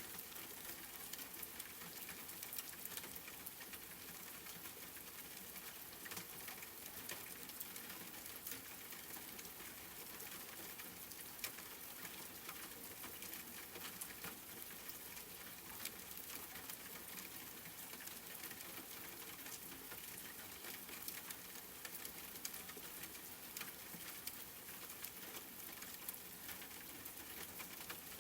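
Steady rain pattering, with a constant hiss of falling rain and many small drop ticks scattered throughout.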